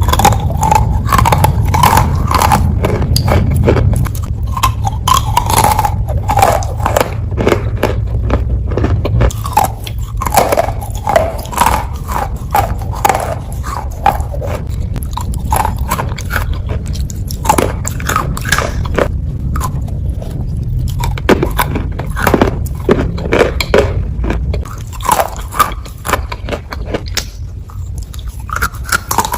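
Wet Ural clay being bitten and chewed close to the microphone: a dense run of short crunches and clicks over a steady low hum.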